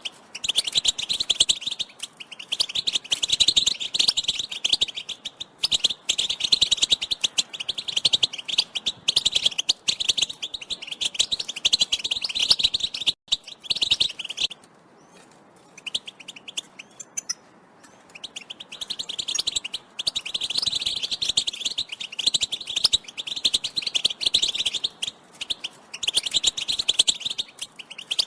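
European goldfinch twittering in long, fast chattering phrases, broken by a pause of a few seconds in the middle with only a few faint chirps. These are goldfinch mating and readiness calls.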